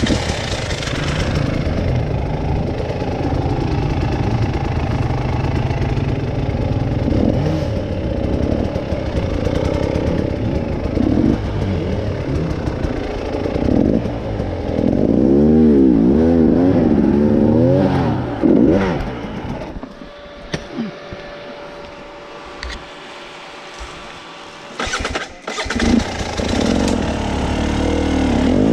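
Motorcycle engine running, revved up and down several times about halfway through. After about 20 s the engine sound drops to a quieter, thinner hum with a steady tone.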